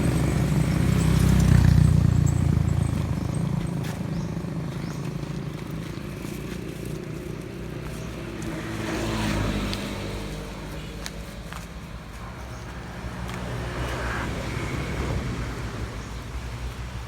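A motor vehicle's engine running, loudest about two seconds in and then fading off.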